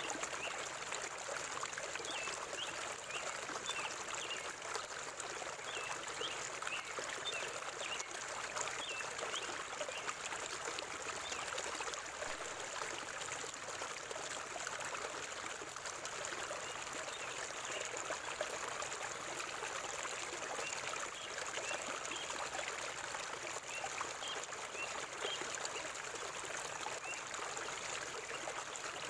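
River water flowing and trickling over rocks in a steady, even rush. Faint short high-pitched blips come and go over it, mostly in the first ten seconds and again near the end.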